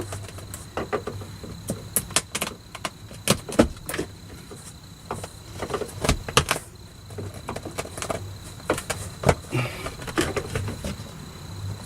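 Irregular sharp taps, clicks and knocks as a sheet of sound-deadening mat is worked and pressed into place against a car's roof panel, over a faint steady hum.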